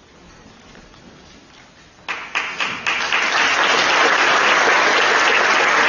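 Audience applause: after about two seconds of quiet room tone, a few separate claps start and quickly build into steady applause.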